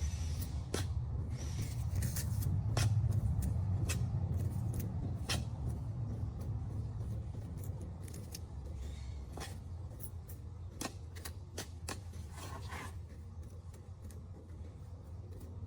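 Irregular short sharp clicks, like scissor snips or small objects being handled, over a low steady rumble.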